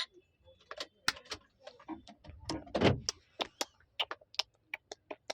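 A run of irregular sharp clicks and knocks, two or three a second, with one louder knock about three seconds in.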